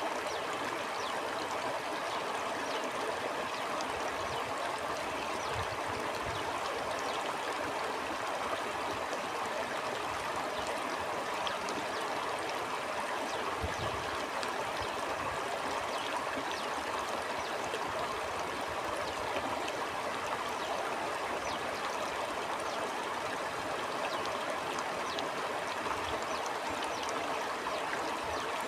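A flowing stream babbling steadily, its rushing water dotted with small splashing and trickling sounds.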